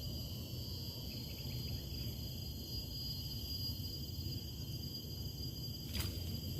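A chorus of insects makes a steady, high-pitched drone on several pitches, over a low rumble, with a short knock near the end.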